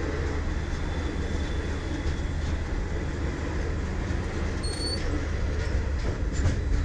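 Train running on the rails: a steady rumbling noise with a strong low drone, and a brief high squeak about five seconds in.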